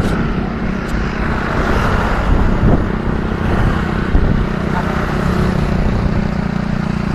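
Wind buffeting the microphone of a moving bicycle, mixed with a steady engine hum from motor traffic on the road.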